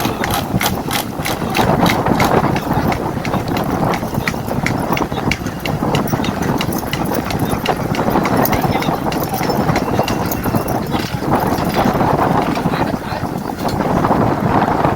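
A large flock of ducks being herded: a dense, loud din of calls with a rapid patter of clicks running through it, thickest in the first few seconds.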